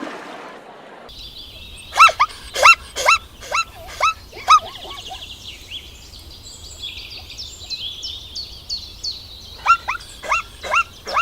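An animal giving short, sharp, high-pitched yapping calls in two quick runs, one about two seconds in and one near the end, over a background of high chirping.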